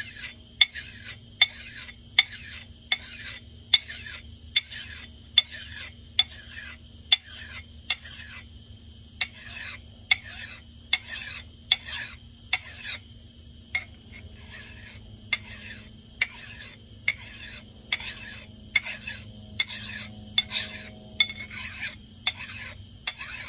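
Steel axe head being worked by hand with an abrasive tool: an even rasping stroke a little more than once a second, each with a sharp click, as the edge bevel is cut in. A faint steady hum lies underneath.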